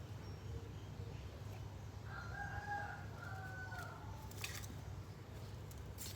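A faint rooster crow in two drawn-out parts about two seconds in, over a steady low hum. A couple of sharp clicks follow it.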